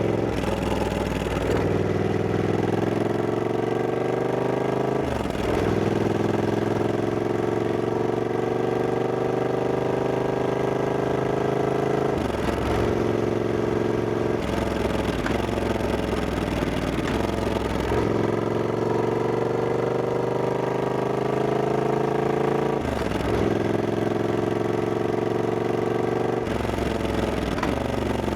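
Triumph Scrambler 1200X's parallel-twin engine under way, its note climbing steadily as it pulls and dropping abruptly at each gear change, about seven times.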